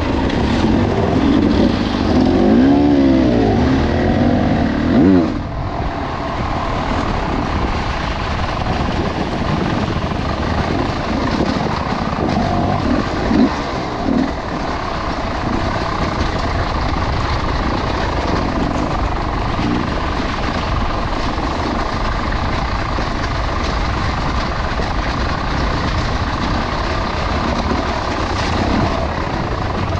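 Off-road motorcycle engine revving up and down for about the first five seconds, then steady, loud riding noise with the engine running on.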